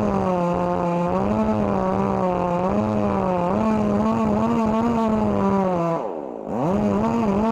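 Two-stroke chainsaw running at high revs in a cut, its pitch wavering up and down as the load changes. About six seconds in it drops off briefly, then revs straight back up.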